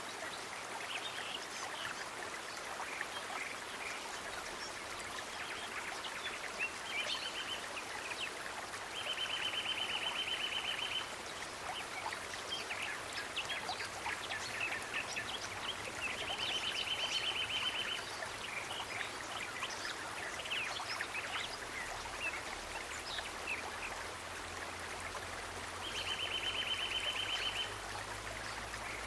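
Steady running water like a stream, with high, rapid trills lasting about two seconds that come four times, and scattered short chirps from small animals.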